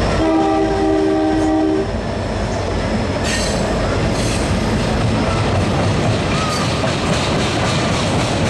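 A train passing close by. Its horn sounds one steady multi-note blast for about a second and a half, then the wheels rumble and clatter over the rail joints, with a rhythmic clickety-clack toward the end.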